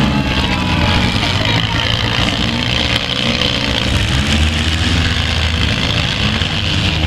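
Several demolition derby cars' engines running and revving together, pitch rising and falling as they push into each other, over the voices of a grandstand crowd.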